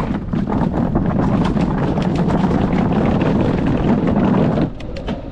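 Wind rushing and buffeting over the microphone of a moving bicycle, loud and gusty; it drops off sharply near the end.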